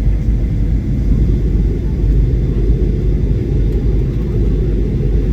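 Airliner cabin noise: a steady low rumble from the engines and airflow, with no distinct events.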